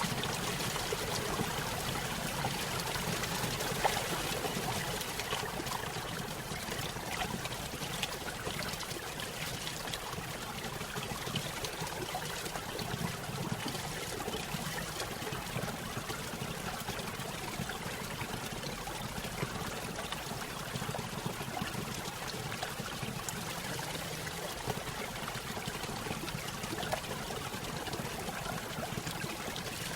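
Small stream pouring over a little waterfall: a steady trickling and splashing of water.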